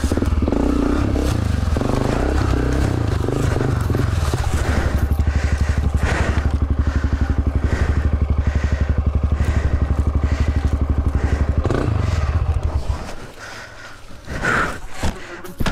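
Trail motorcycle engine running close by at a steady, low speed, a fast even firing pulse. It drops off sharply near the end, leaving scattered knocks and rustles.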